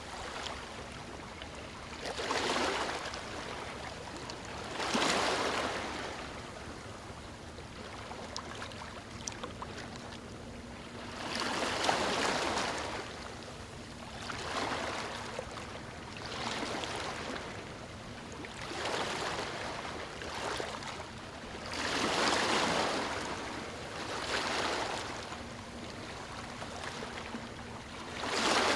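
Ocean waves breaking and washing onto a beach: a steady hiss of surf that swells into a louder wash every two to three seconds and then falls back.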